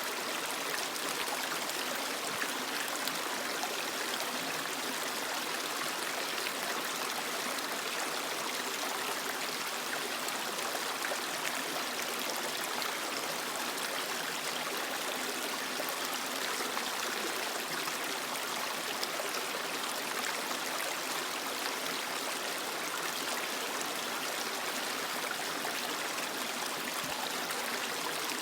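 Creek water running steadily over rocks: a continuous, even rushing and trickling, stronger in the higher pitches than in the low.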